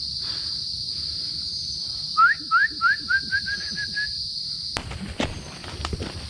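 Forest insects keep up a steady high-pitched drone. About two seconds in, a bird gives a series of rising whistled notes that speed up and shorten into a brief trill. Near the end come scattered crackles of footsteps through undergrowth.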